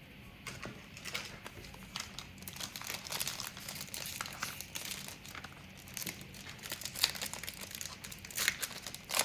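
Trading-card pack wrapper crinkling and being torn open, a continuous irregular crackle of plastic.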